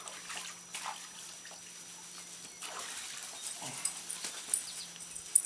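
A dog whimpering, with a low steady hum underneath.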